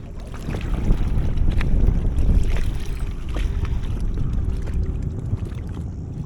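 Wind buffeting an action camera's microphone, a heavy low rumble that swells about half a second in, with a few light knocks.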